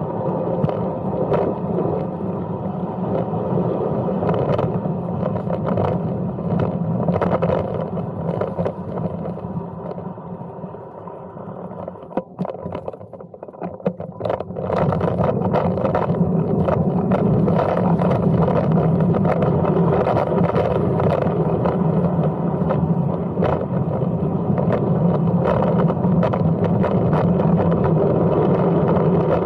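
Brompton M3L folding bike being ridden: steady tyre, drivetrain and wind noise. It drops away briefly about halfway through, then comes back louder.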